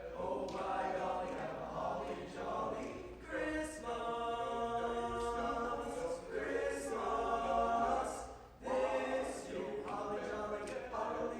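High school choir singing unaccompanied, holding long chords that change every second or two, with a brief breath break about eight and a half seconds in.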